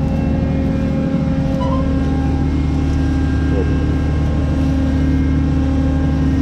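New Holland CX 5090 combine harvester's diesel engine running steadily at constant speed.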